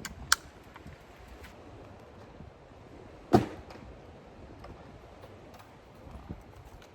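Two sharp knocks about three seconds apart, the second louder and heavier, over a quiet background.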